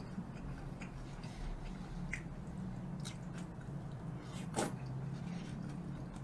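Close-miked eating sounds: a man chewing and working food off chopsticks, with scattered wet mouth smacks. The loudest comes about four and a half seconds in, over a low steady hum.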